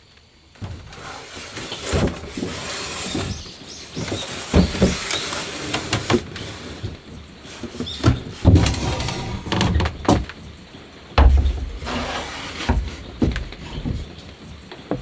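Irregular knocks, thuds and scraping sounds, with a heavy low thump a little after eleven seconds in.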